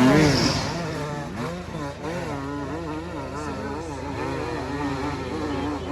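Enduro motorcycle engine revving, its pitch rising and falling with repeated throttle blips. It is loudest at the start and eases off about a second in.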